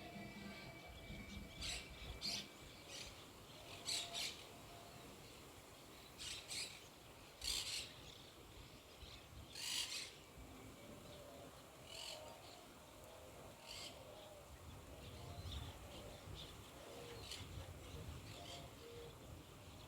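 Faint short bird calls, about a dozen scattered irregularly, over a faint low rumble that swells in the second half.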